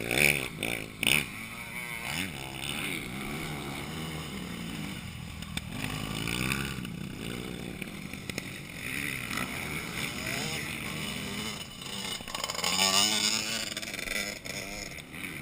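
Motocross bikes racing past, their engines revving up and down as the riders open and close the throttle. Several engines overlap. The loudest moments come right at the start and again about thirteen seconds in, as bikes pass close.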